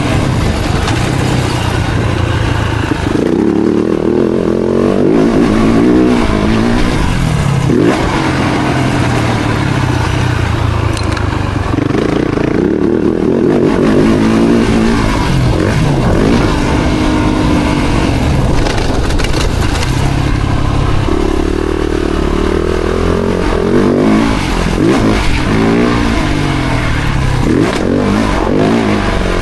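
Four-stroke motocross bike engine revving hard, its pitch climbing and dropping over and over as the rider accelerates, shifts and backs off.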